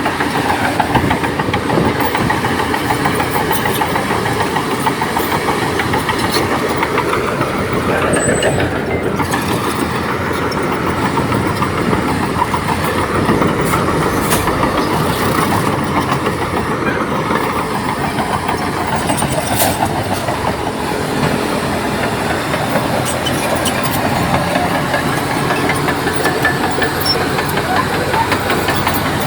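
Crawler bulldozer's diesel engine running steadily under load, with a dense mechanical clatter.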